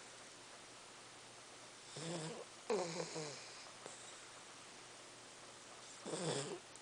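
A dog snoring: two snoring breaths about two to three seconds in, the second louder with a sharp start, and another near the end, with quiet between them.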